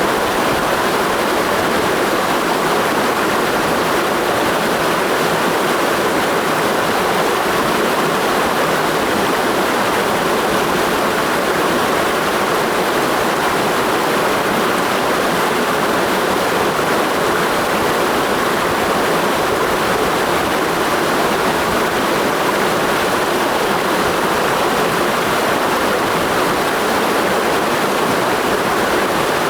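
Clear mountain stream in a gorge, its water rushing steadily with no breaks or changes.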